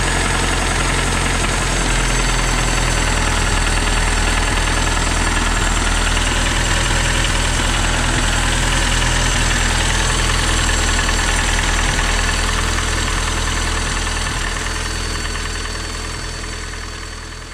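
Datsun 720's newly turbocharged engine idling steadily on its first run after the turbo install, fading out near the end.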